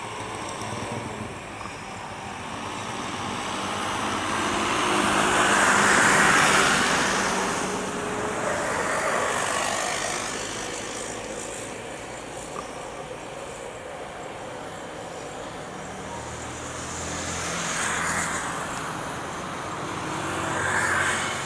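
Vehicles passing close by one after another: a rushing noise that swells and fades, loudest about six seconds in, with two shorter passes near the end.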